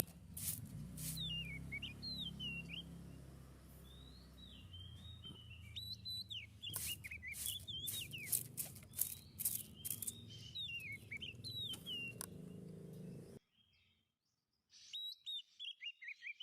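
Tledekan laut songbird singing short whistled phrases that sweep down and up, repeated again and again, over a low background rumble with a few sharp clicks. Near the end the background cuts out abruptly, and the song comes back a second or so later.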